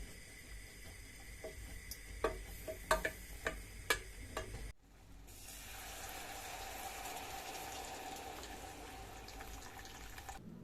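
Kitchen sounds: a quick run of sharp knocks, about six, in the first half. Then, after an abrupt change, a steady rush of water running from a tap.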